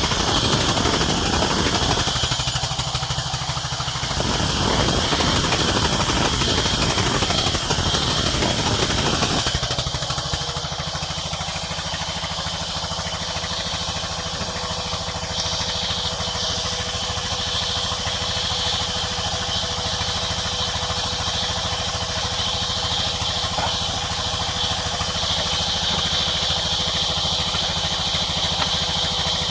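Sawmill machinery running without a break. It is louder and rougher for about the first nine seconds, then settles to a slightly quieter, steady hum.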